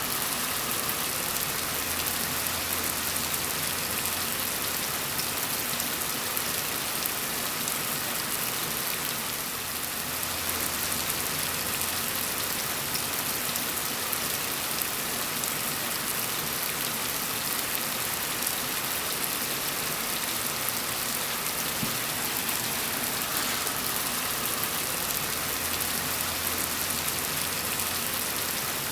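Steady rain falling, a dense, even hiss of drops without thunder or breaks.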